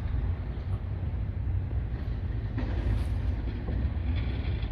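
Long freight train rolling slowly past at low speed, a steady low rumble of the cars going by, with a short sharper noise about two and a half seconds in.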